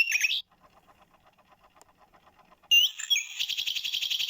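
Recorded nightingale song played through a bird clock's small speaker. A phrase of repeated notes ends just after the start, then after a pause a loud, fast trill begins about two and a half seconds in.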